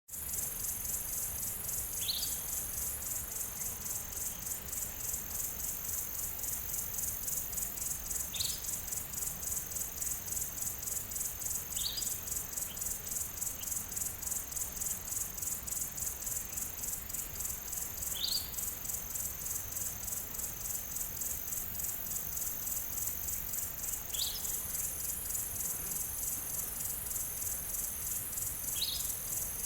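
A steady insect chorus, a high-pitched rapid pulsing trill. A bird's short rising chirp repeats about six times, one every four to six seconds.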